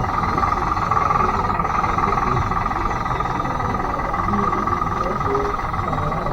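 Converted Bruder D5 RC bulldozer running, with a steady whine from its electric drive motors and gearbox.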